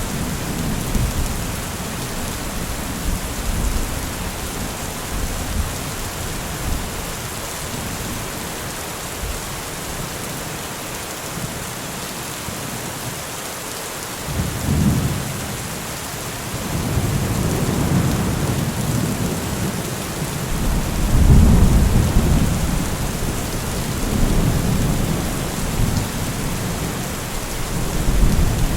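Steady rain hissing, with low rolling thunder that swells and fades several times. The rumble dies away in the middle, comes back about halfway through, and is loudest about two-thirds of the way in.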